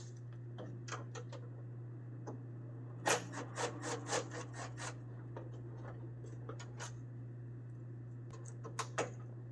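Scattered small clicks and scrapes of hands working on parts inside a pickup cab, thickest about three to five seconds in and again near the end, over a steady low hum.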